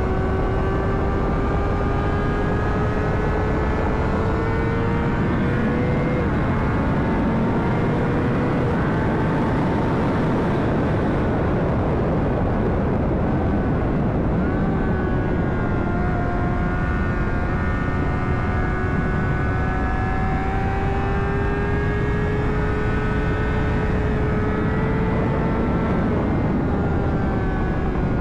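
2009 Honda CBR600RR's inline-four engine under way at speed, its pitch climbing slowly, breaking off about six seconds in, then climbing slowly again from about fifteen seconds. A steady, heavy wind rush is mixed in.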